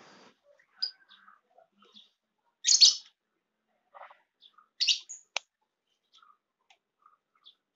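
Small birds chirping in short, scattered calls. The loudest come about three seconds in and again near five seconds.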